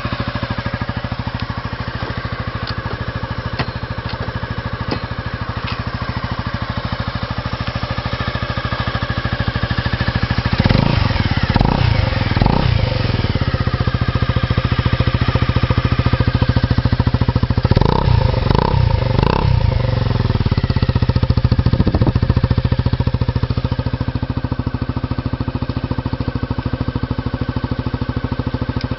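Honda Forza Z scooter's single-cylinder engine, through an aftermarket Moriwaki exhaust, idling steadily and blipped in short throttle revs: a group of three about ten seconds in, another three around eighteen seconds, and a single one shortly after.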